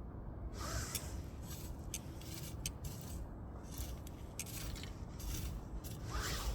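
Wood fire crackling, with a run of sharp pops and short hissing spurts over a steady low rumble.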